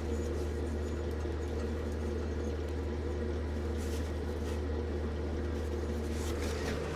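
Steady low machine hum, like a motor or fan running, with a couple of faint clicks about halfway through.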